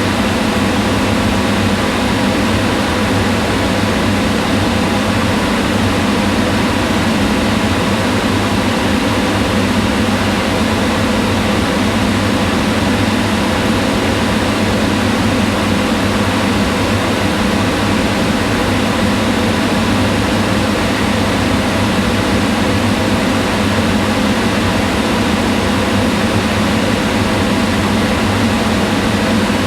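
Kitchen range hood exhaust fan running steadily: a continuous hum of motor and rushing air, with no change in pitch or level.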